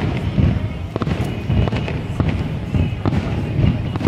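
Fireworks display: a rapid string of overlapping bangs and booms from aerial shells bursting, several a second, over a continuous low rumble.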